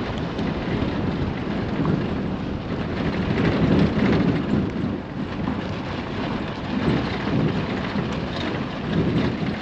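Steady rumble of a vehicle being driven, with road noise and wind buffeting the microphone.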